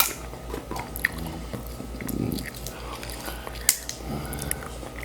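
Close-up chewing and biting of boiled crab, with small clicks and crackles of shell being handled.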